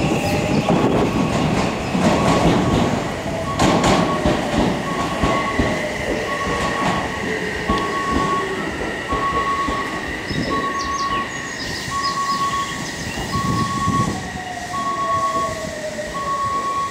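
Odakyu electric commuter trains moving through the station: wheels rolling and clattering on the rails, with the whine of the traction motors rising as a train pulls away. Near the end a second whine falls in pitch as a train slows in. A short electronic beep repeats about every 0.7 seconds over it all.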